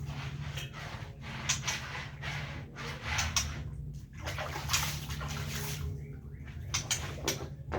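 Water splashing and sloshing in short uneven spells, over a steady low hum.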